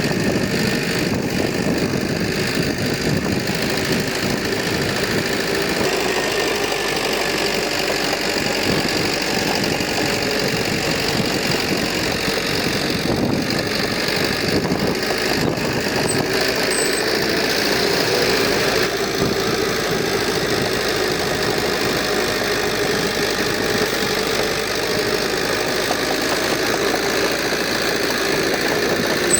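Heavy earthmoving machinery's diesel engine running steadily, with no breaks or sharp changes.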